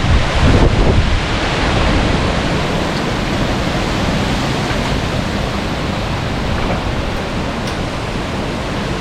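High storm wind blowing as a loud, steady rush, with heavy gusts buffeting the microphone in the first second.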